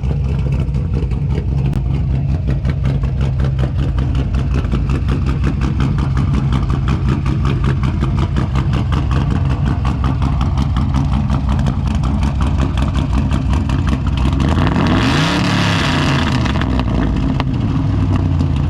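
A car engine idling with a rapid, choppy pulse. It is revved once about fifteen seconds in, the pitch rising and then falling back.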